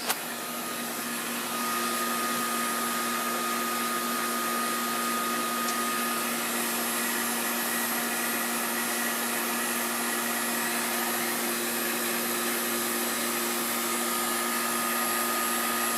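Newly installed York air conditioning system running: a steady rush of blower air with a steady hum over it. There is a brief click right at the start, and the sound grows slightly louder about a second and a half in.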